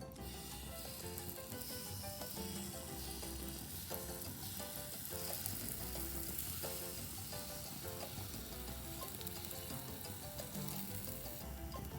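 Takoyaki batter sizzling in an oiled takoyaki pan, a steady hissing fry that stops shortly before the end, with light background music under it.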